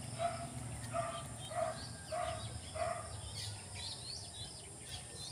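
Birds calling: a run of short, low repeated notes about twice a second, then a few higher, quicker chirps over the last two seconds.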